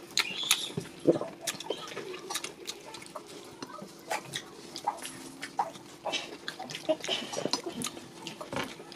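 Close-miked eating sounds: wet chewing and lip smacks, with soft squelches as pieces of swallow are dipped into egusi soup by hand.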